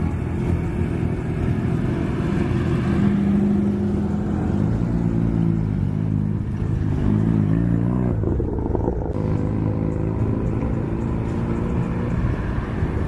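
A car's engine running as it drives slowly by, its pitch shifting up and down as it revs, around seven seconds in.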